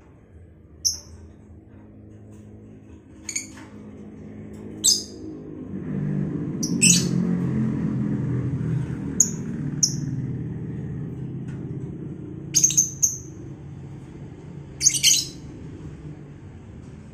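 Lovebirds giving short, shrill chirping calls, about ten of them scattered through, several in quick pairs. A low droning hum swells up around the middle and slowly fades.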